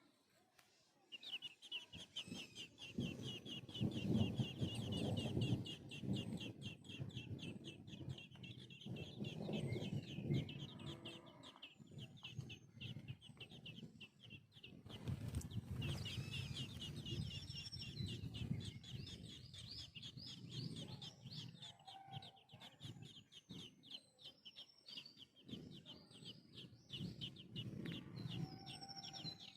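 Bird calls: a fast run of short, high chirps, many a second, going on almost without a break. Louder, lower rough sounds come and go beneath them.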